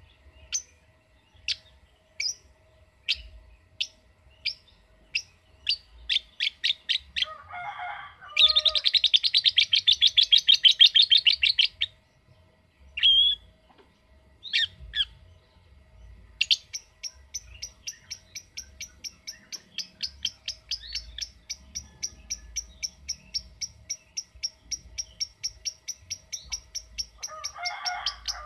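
Lovebird calling: sharp single chirps that speed up over the first seven seconds into a fast rattling trill lasting about three seconds, the long chatter keepers call ngekek. After a few single calls, from about sixteen seconds it keeps up an even run of rapid ticking notes, about four or five a second, the 'typing' call keepers call ngetik.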